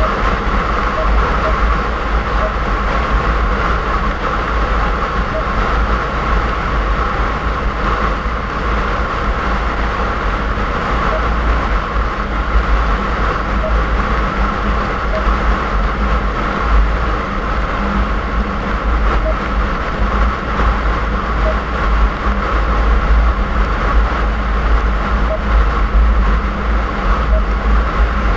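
Steady in-car driving noise: low engine and road rumble with tyre noise on a snowy road, heard inside the cabin. A faint short tick comes about every two seconds.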